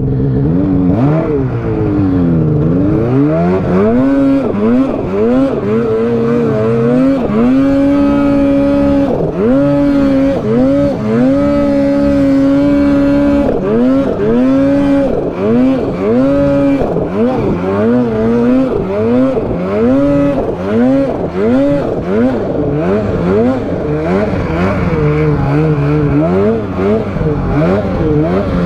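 Snowmobile engine revving hard and unevenly, its pitch rising and falling over and over, with a few stretches held at steady high revs for a second or more.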